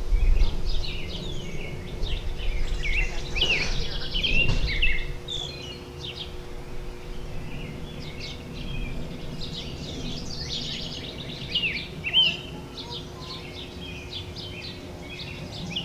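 Background birdsong: several small birds chirp and sing in quick, overlapping calls. A low rumble sits under the calls for about the first five seconds and then fades.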